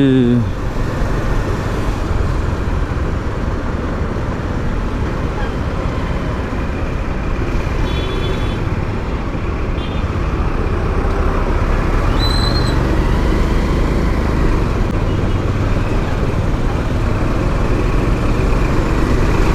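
Riding a motorcycle through city traffic: a steady rush of engine, road and traffic noise. A few brief high beeps come through about 8 and 12 seconds in.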